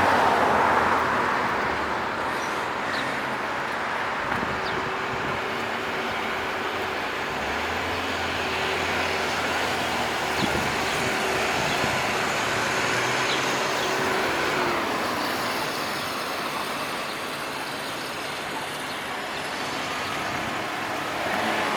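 Downtown street traffic: a steady wash of passing vehicles' engine and tyre noise, with a deeper engine hum from a nearby vehicle in the middle.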